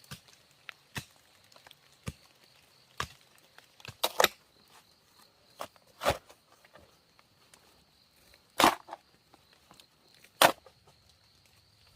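Wood being chopped by hand: single sharp strokes at an irregular pace, a second or two apart, the loudest a little after four, six, eight and ten seconds in.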